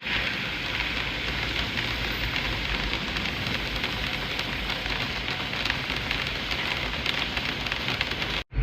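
Heavy rain falling steadily on hard surfaces: a dense, even hiss full of fine drop ticks, cut off abruptly near the end.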